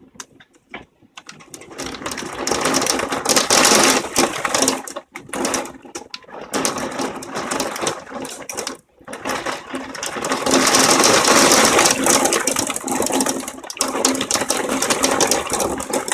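Large hailstones pounding on a house, a dense clatter of countless impacts on windows and walls. It starts light, builds to a heavy rattle within the first couple of seconds, and eases for a moment a few times before surging again.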